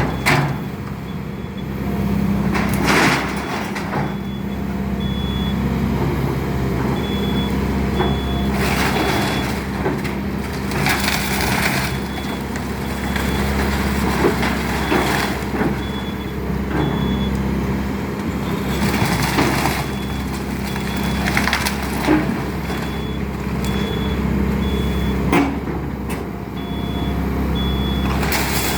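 Excavator demolishing a wood-framed house: its diesel engine runs steadily while timber cracks, splinters and crunches in repeated bursts as the structure is torn apart. A high warning beep sounds about once a second throughout.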